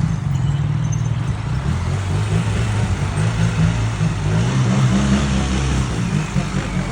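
Motorcycle engine running at a steady speed while riding, its low hum wavering a little in pitch, over a constant rush of wind and road noise.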